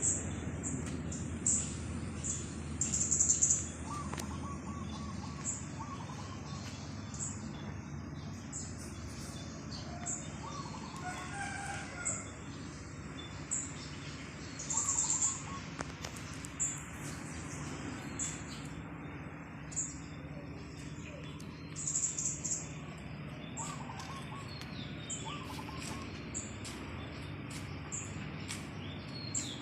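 Birds chirping in the morning: short high chirps repeating about once a second, with a few lower chirping phrases and louder bursts of high chirping about three seconds in, near the middle and again later. A steady low hum runs underneath.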